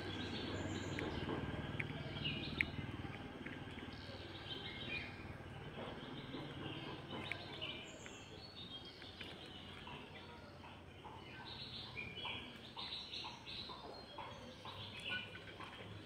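Birds chirping and calling with many short notes over faint outdoor background noise. A low hum under it fades away over the first several seconds.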